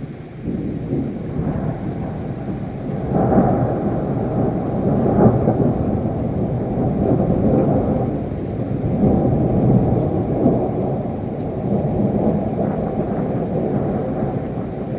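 Thunderstorm: rolling thunder over steady rain, deep and continuous, swelling louder about three seconds in and again a little past the middle.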